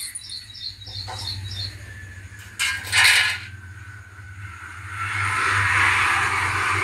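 A small bird chirping a quick run of short high notes, about four a second, over the first two seconds. A loud, short burst of noise comes about three seconds in, and a longer swell of noise builds near the end while clothes are being handled.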